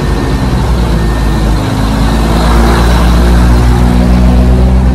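Diesel engine of the Maeklong Railway train, a loud, steady low rumble as the train passes slowly close by.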